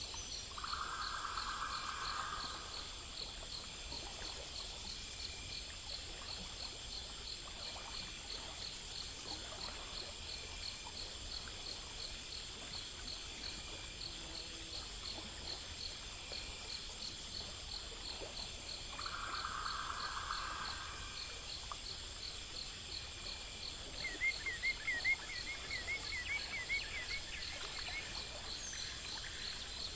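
Night insect chorus, crickets and other insects trilling steadily in several high pitches. Two short buzzing calls come about a second in and again near the middle, and a quick run of chirps sounds near the end.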